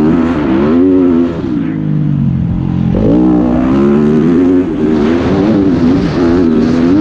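Dirt bike engine heard on board, revving up and easing off as the rider works the throttle: it backs off about a second in, then climbs sharply again about three seconds in and keeps rising and falling.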